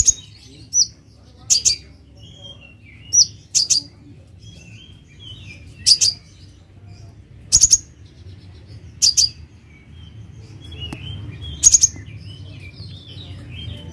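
Kolibri ninja sunbird calling: sharp, high, often doubled notes repeated every second or two, with fainter twittering from other birds between them.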